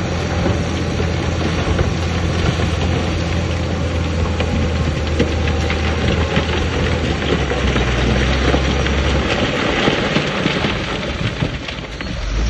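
A heavy diesel earthmoving machine's engine running steadily under a constant rushing noise. Its engine note drops a little about eight seconds in, and the sound eases briefly just before the end.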